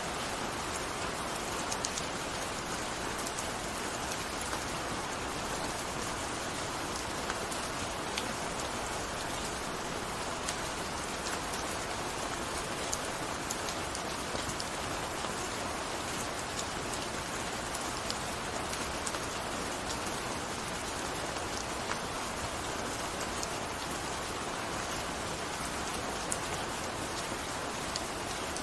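Steady gentle rain falling, a continuous patter with many scattered small drops ticking on surfaces.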